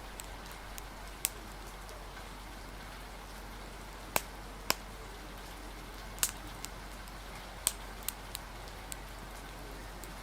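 Steady rain hiss with a wood fire crackling: about ten short, sharp pops at irregular intervals, most of them in the middle of the stretch.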